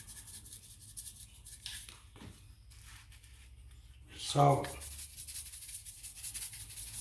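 Hand spice grinders twisted over the chicken: first pepper, then salt, each a fast gritty rasping of fine clicks. The first run lasts about two seconds; the second starts about two-thirds of the way in.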